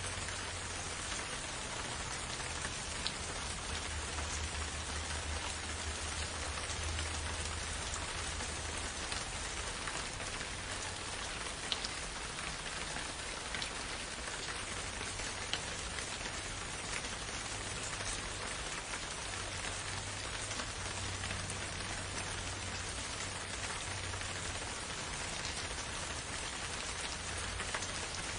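Steady forest rain falling, with a few louder single drops ticking through it.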